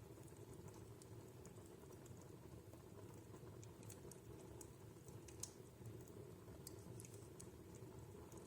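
Wood fire in a fireplace crackling faintly: irregular small sharp pops over a low steady rumble, with one louder pop about halfway through.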